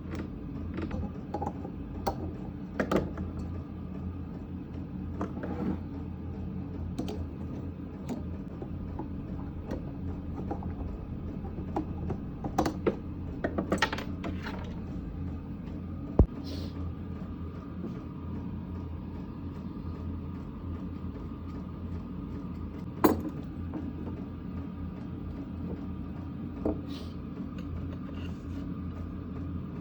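Valves of a small generator engine being hand-lapped with grinding paste: gritty rubbing of the valve twisted against its seat, with scattered clicks and taps and a couple of sharper knocks. A steady low hum runs underneath.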